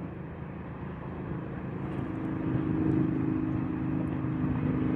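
Freight train hauled by a 3ES5K Ermak electric locomotive approaching: a low rumble that grows louder, joined about two seconds in by a steady hum.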